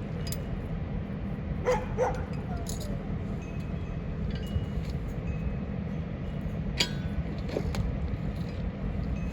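A dog barks twice in quick succession about two seconds in, with a few fainter sounds later, over a steady low rumble.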